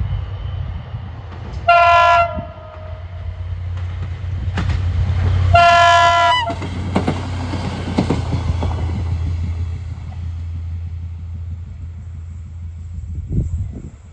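SA106 diesel railcar pulling away, its diesel engine droning steadily. It sounds its horn twice: a short blast about two seconds in and a longer one about four seconds later. Wheels knock over rail joints as it goes.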